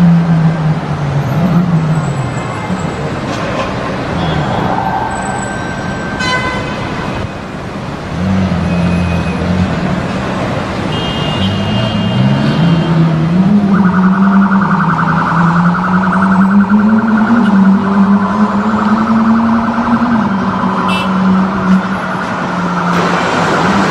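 Car engines running and revving, their pitch rising and falling. About halfway through a rapidly pulsing, alarm-like tone starts and continues until near the end.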